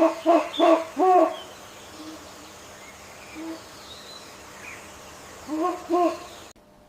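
An animal's short, pitched calls: a quick run of four or five in the first second and a half, then two more about five and a half seconds in, with a faint background hiss between. The recording cuts off abruptly just before the end.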